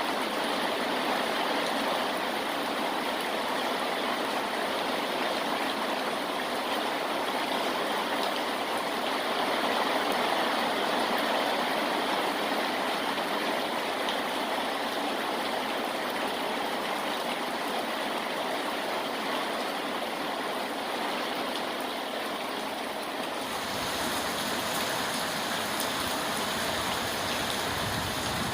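Steady rain falling, a dense even hiss of water. About 23 seconds in the sound changes and a low rumble joins it.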